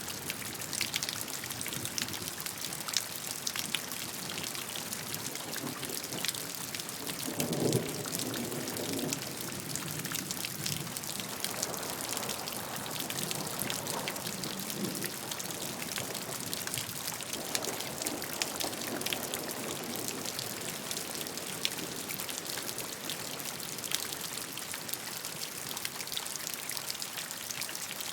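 Steady rainfall: an even hiss of rain with many individual drops striking surfaces, and a few brief lower swells of sound mixed in.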